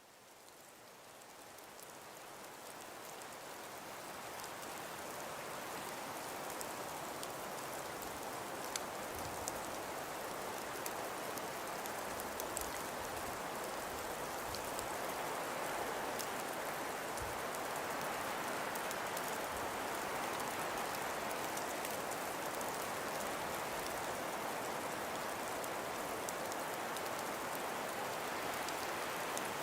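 Steady hiss of wind and falling precipitation, sprinkled with faint scattered ticks. It fades in over the first several seconds, then holds even.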